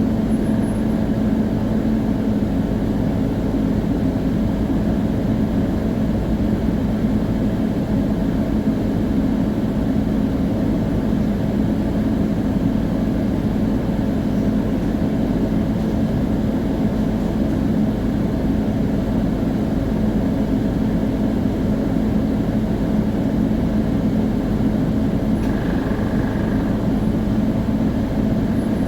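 Scania CN280UA city bus under way, heard from on board: its Scania DC9 five-cylinder diesel runs under a steady, even hum, and a steady whine from the rear axle's final drive rides over it. Near the end a brief higher tone sounds.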